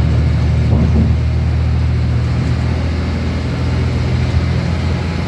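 Inside a moving diesel passenger train: a steady low engine drone with the running noise of the wheels on the track. The engine note eases slightly a little past the middle.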